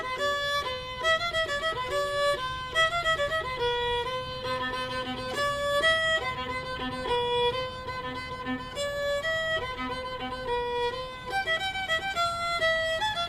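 Fiddle music, a lively tune of quick notes played one after another.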